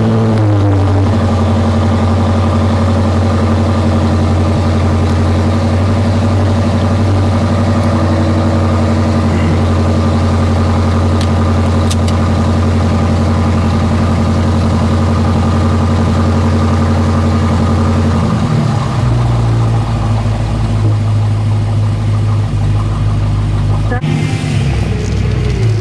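BMW M5 F10's 4.4-litre twin-turbo V8 idling at a raised, steady idle just after start-up, then stepping down to a lower, rougher idle about 18 seconds in.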